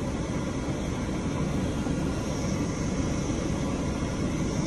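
Steady road and engine noise of a 2010 Dodge Avenger driving, heard inside the cabin. The car runs smoothly here, without the shaking that its misfire causes.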